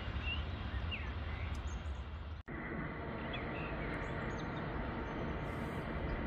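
Small birds chirping in short calls over a low steady rumble, with a brief dropout about two and a half seconds in.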